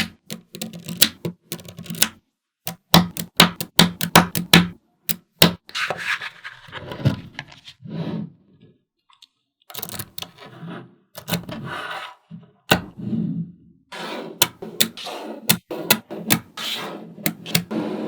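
Small magnetic balls clicking sharply as they snap together, in quick irregular runs, with stretches of rattling and rubbing as the balls are pushed and rolled into place between the clicks.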